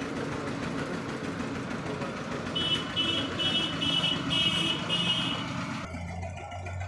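Vehicle and street noise with a run of six short electronic warning beeps, about two a second, in the middle. The background falls away abruptly near the end.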